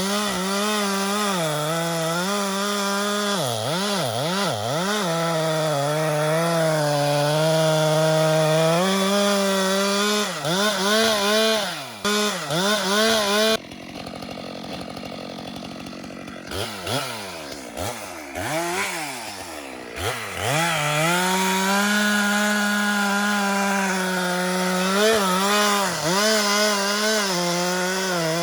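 Chainsaw running at high revs, its pitch dipping and recovering as it works through wood. About halfway through the sound drops suddenly to a quieter stretch where the engine revs up and down, then it goes back to a steady full-throttle note.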